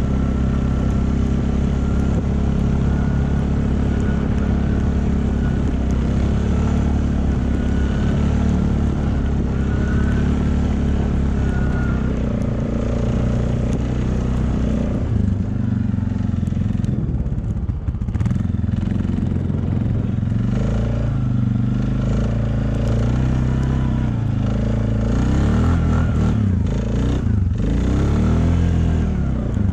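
A motor vehicle's engine running steadily throughout, its pitch shifting with speed. Near the end the revs rise and fall several times.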